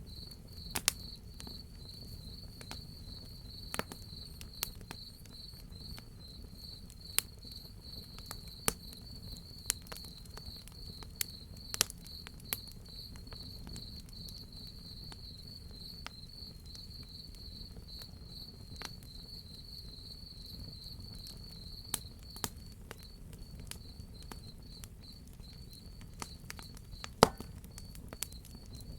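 Crickets chirping in a continuous high trill that breaks into separate pulses in the last few seconds, over a wood fire crackling with scattered sharp pops, the loudest one near the end. A steady low rumble sits underneath.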